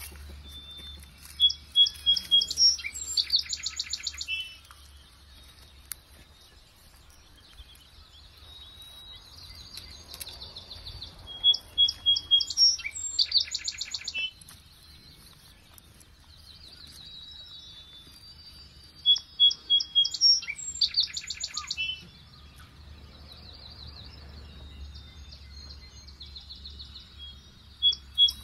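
A songbird singing the same short, loud song over and over, about every nine seconds: a few clear high notes running into a fast trill.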